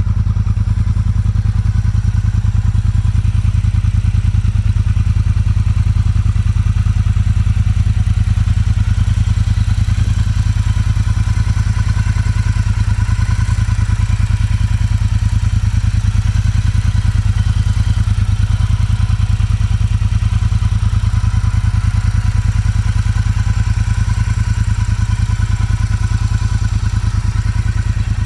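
Motorcycle engine running steadily at an even speed, a fast regular pulse with no revving.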